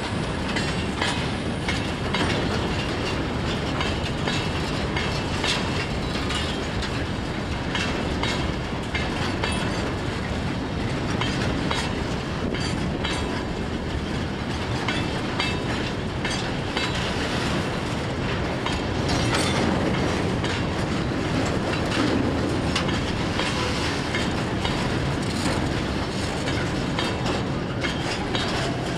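Freight train cars rolling past on the track, a steady rumble and rattle with the wheels clicking over rail joints throughout.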